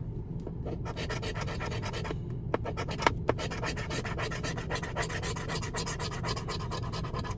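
Scratch-off lottery ticket being scratched, its coating scraped away in rapid, continuous strokes, with a few sharper clicks around the middle.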